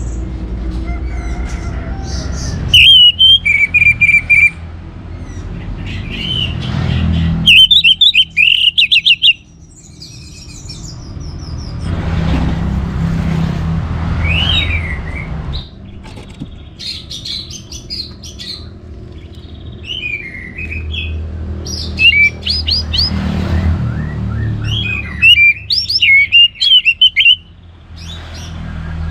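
Orange-headed thrush (anis merah) singing several bursts of loud, quick, varied whistled phrases separated by pauses, over a low background rumble.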